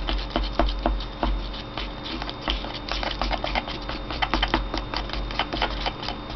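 Thick pine green paint being stirred in its container: irregular clicking and tapping of the stirrer against the pot, several knocks a second.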